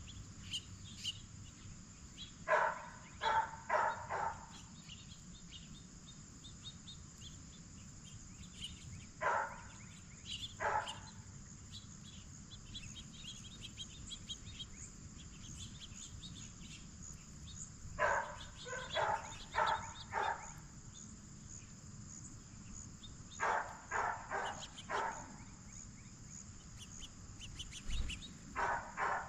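Blue jays giving harsh jay calls in short runs of three to five, five times over, above a steady high drone of crickets or other insects.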